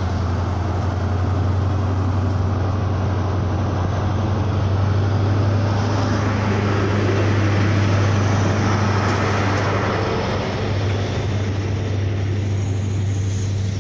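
Class 43 HST power car going by close, its diesel engine running with a steady low drone, followed by the Mark 3 coaches rolling past on the rails, loudest in the middle.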